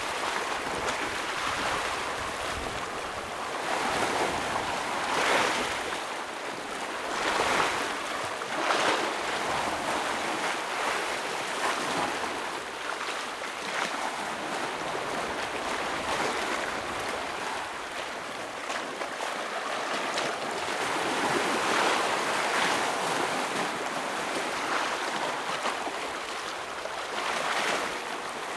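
Ocean waves breaking and washing over rocks on a rocky shore: a continuous rush of surf that swells in repeated surges every couple of seconds.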